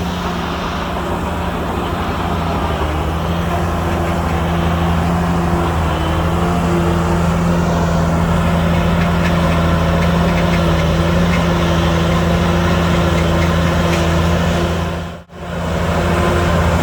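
Heavy diesel engine of earthmoving machinery running steadily under load, its pitch holding level. The sound cuts out for a moment near the end, then returns.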